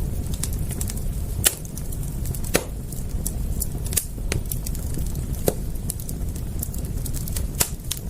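Wood fire crackling: irregular sharp pops and snaps over a steady low rumble, a handful of them louder than the rest.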